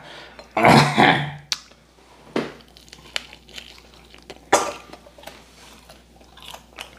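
Close-up eating sounds: fried chicken being chewed and crunched, with scattered small clicks of chopsticks and dishes. A short burst of voice, like a laugh, about a second in.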